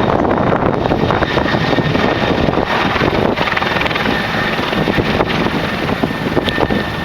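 Bell 412 twin-turbine helicopter running, steady rotor and engine noise with a faint high turbine whine, mixed with wind buffeting the microphone.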